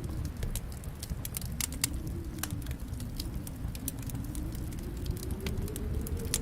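Wood fire in a fireplace crackling, with frequent sharp, irregular pops over a low, steady rumble of flames.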